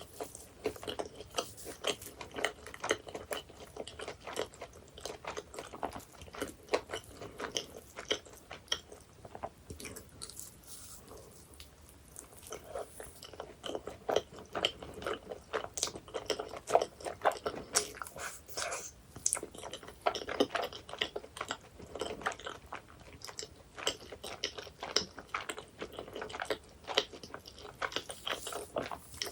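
Chewing and biting into flaky baked pies, with many small crisp crunches of pastry. The crunching thins out for a few seconds about a third of the way in, then comes back thick.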